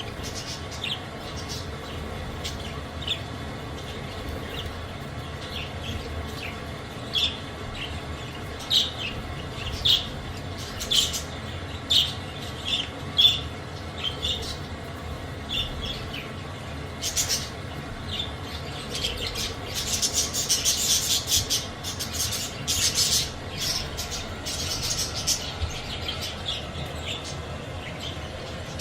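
Budgerigars in an aviary giving short, separate chirps, which turn into busier chattering and squawking about twenty seconds in.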